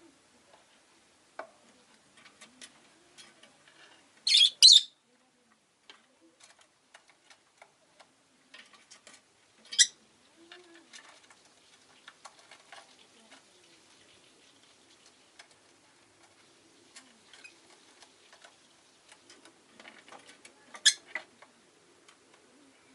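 Rosy-faced lovebird giving short, sharp, high calls: a quick pair about four seconds in, another near ten seconds and one near the end. Faint scattered chirps and clicks fill the gaps.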